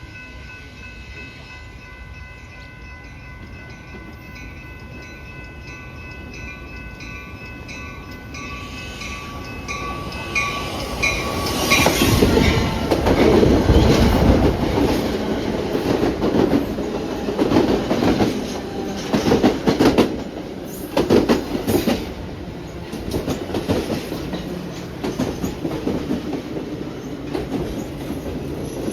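A train approaching and then passing close by at speed. From about twelve seconds in, the wheels clack rapidly over the rail joints with a loud, pulsing rumble. Before it arrives, steady high ringing tones sound while the train's noise slowly builds.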